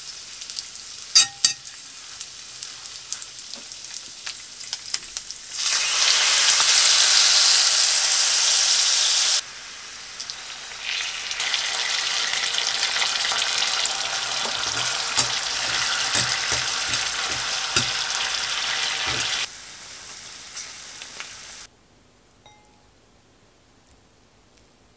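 Beef large intestine sizzling in fat in a small cast-iron skillet, with a few sharp clicks of metal tongs against the pan near the start. The sizzling turns much louder for long stretches, including while teriyaki sauce is spooned into the pan, then softens and cuts off a few seconds before the end.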